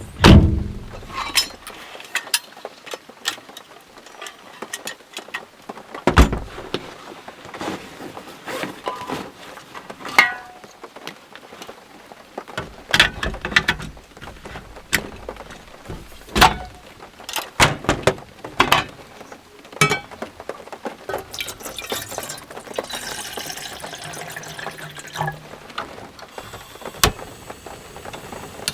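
Irregular knocks, taps and clatters of things being handled, with a heavy thump at the start and a stretch of hissing noise near the end.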